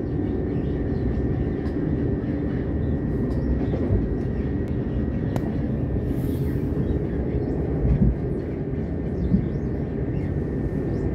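Cabin noise of a moving electric passenger train, heard from inside the carriage: a steady rumble of wheels on the track with a faint, steady high whine and a few short knocks, the loudest about eight seconds in.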